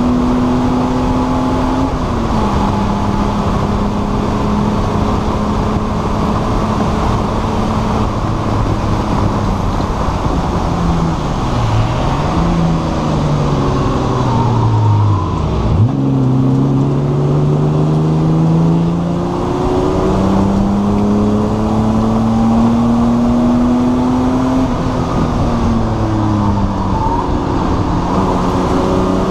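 Race car engine heard from inside the stripped, caged cabin, running hard at high revs. About halfway through the pitch drops and wobbles sharply as the driver lifts and downshifts for a corner. It then climbs steadily again as the car accelerates, over steady road and wind noise.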